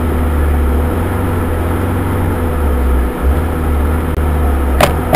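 Steady low rumble inside a car's cabin from its running engine and blower fan, with a few sharp knocks near the end.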